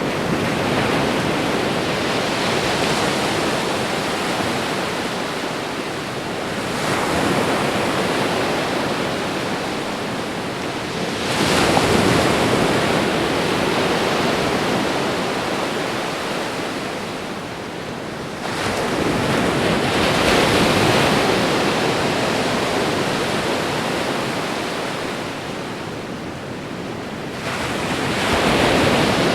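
Ocean waves breaking on a shore: a continuous wash of surf that swells louder about every six seconds as each wave comes in.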